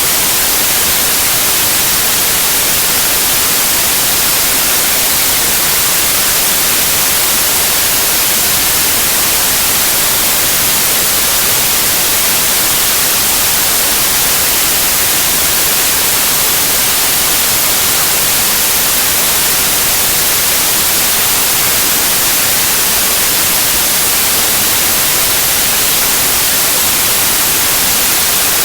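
Steady white noise: an even, unchanging hiss, brightest in the treble, with no other sounds in it.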